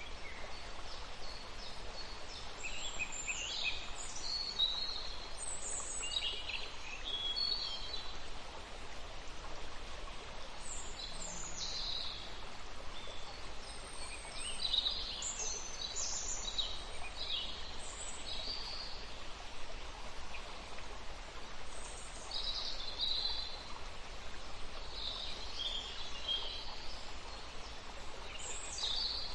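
Birds chirping and calling in short, repeated phrases scattered throughout, over a steady background hiss.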